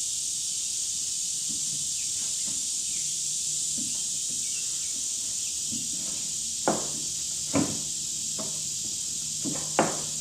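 Wooden coop frame pieces knocking together as they are lifted and fitted, several sharp knocks in the second half, over a steady high hiss.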